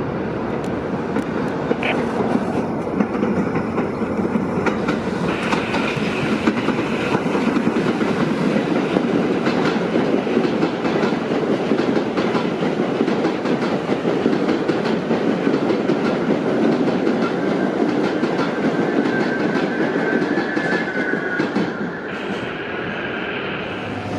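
New York City subway train running past on the track, wheels clicking over the rail joints in a steady rumble. A faint high whine comes in near the end.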